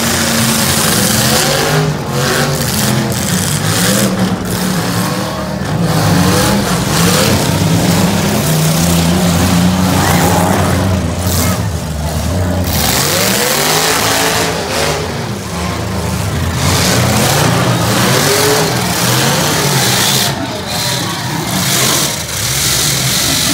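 Several demolition derby cars' engines revving hard at once, their pitch rising and falling over and over as the cars accelerate and back off.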